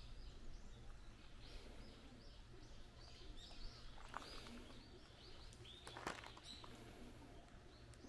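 Faint outdoor ambience of small birds chirping, many short high calls one after another, with a couple of soft clicks about four and six seconds in.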